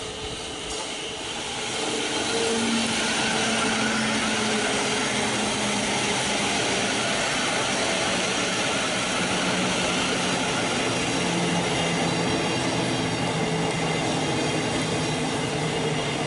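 A Thameslink Class 700 electric multiple unit drawing into the platform and slowing almost to a stand, with a steady rush of wheels and running gear and a low electrical hum. The train gets louder about two seconds in and then holds steady.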